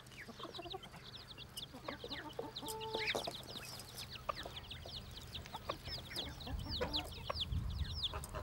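Bantam chicks peeping nonstop, a stream of short, high, falling peeps several times a second, with the mother hen clucking now and then.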